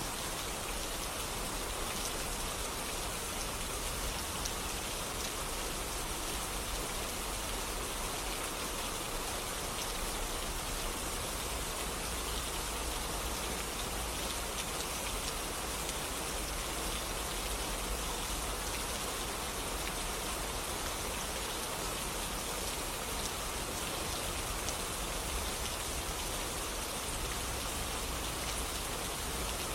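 Steady rain falling and pattering on surfaces, an even hiss with scattered drop ticks and no break.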